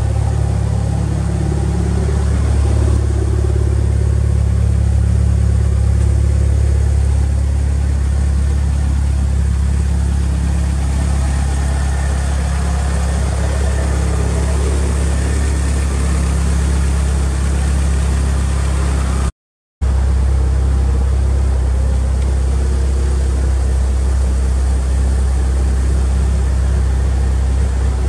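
Mitsubishi Lancer Evolution VI's TOMEI-built turbocharged 4G63 four-cylinder idling steadily. The sound drops out for a moment about two-thirds of the way in.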